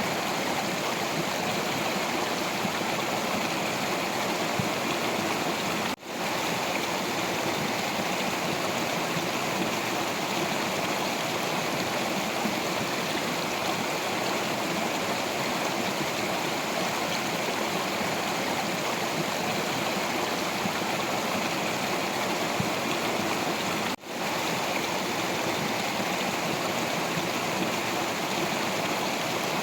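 Stream of water flowing over rocks, a steady rushing and gurgling. The sound briefly cuts out and swells back twice, about six seconds in and near the end.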